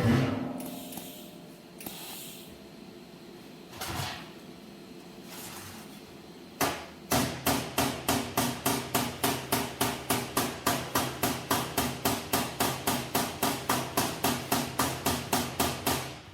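Hammer blows on the steel body of a wood-burning stove being built. A few scattered knocks, then a steady run of about three ringing strikes a second, stopping near the end.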